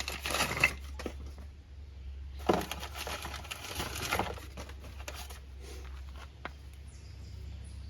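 Handling noise: a short spell of rustling and light clicks, then a longer one midway, and a single sharp click later, over a steady low hum.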